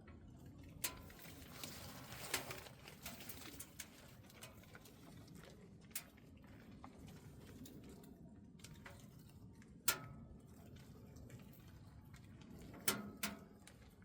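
Wood fire burning in a double-combustion camping wood stove: scattered crackles and pops over a low, steady rush of flame, the sharpest pops about ten seconds in and twice near the end.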